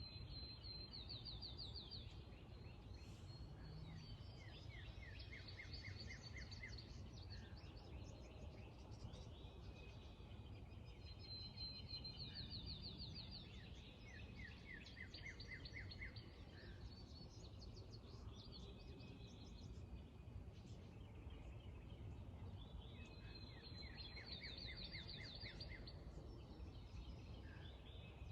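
Songbirds singing faintly at dawn: several overlapping trilled phrases of quick repeated notes, coming again every few seconds, over a steady low rumble of background noise.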